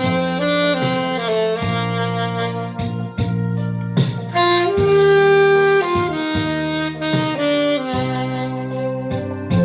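Saxophone playing a song melody, moving between notes and holding some longer ones, over backing music with a bass line and a regular beat.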